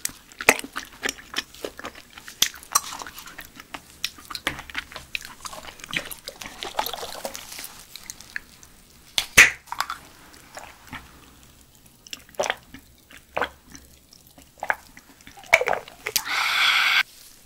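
Close-miked chewing of steamed giant silkworm pupae: wet mouth sounds with many short sharp clicks and pops as the pupae are bitten. Near the end a louder steady noise lasts about a second and cuts off suddenly.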